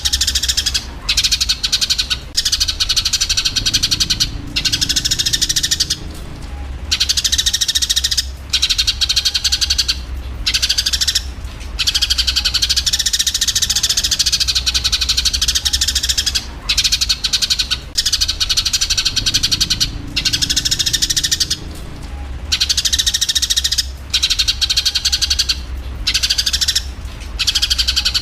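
Eurasian tree sparrows chattering in a dense, rapid run of chirps, the excited calls of sparrows fighting, broken by short pauses every second or two over a low steady hum.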